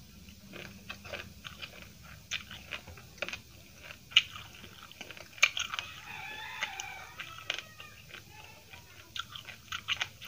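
Close-miked eating: a person chewing, with crisp crunches of raw cabbage leaf and wet mouth clicks at irregular intervals.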